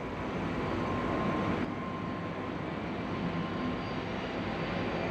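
JR Freight EF200 electric locomotive hauling a freight train up a steep grade: a steady running noise of the locomotive and wheels on rail, with a thin steady tone through it. It swells over the first second and then holds level.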